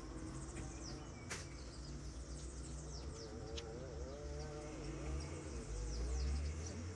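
Birds chirping, with many short, high, falling calls scattered throughout, over a low outdoor rumble.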